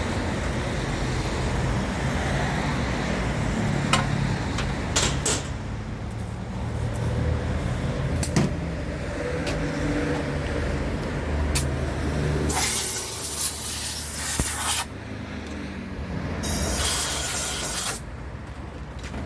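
Generator engine running steadily with a low rumble, a few sharp clicks, and two long bursts of hissing a little past halfway and again near the end.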